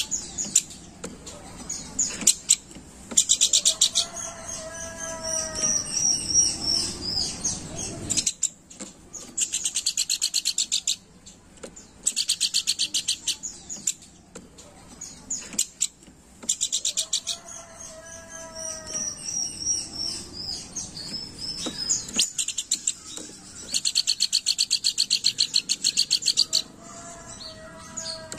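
Pelanduk bukit babbler singing. Bursts of rapid, high, buzzy trills repeat every few seconds and alternate with a lower, clearer whistled phrase that slides down.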